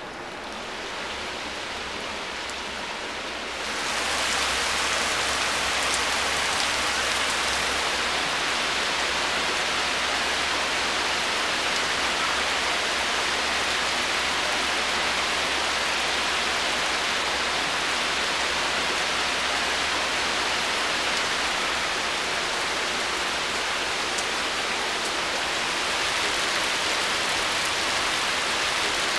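Heavy rain pouring steadily onto open water and leaves, growing louder over the first four seconds and then holding even.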